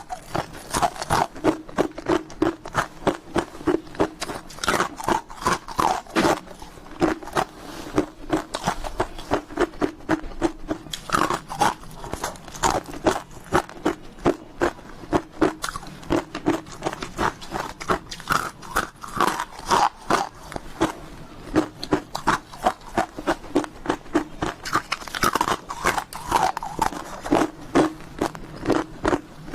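Close-miked crunching of ice being bitten and chewed: a steady run of crisp crunches, a few a second.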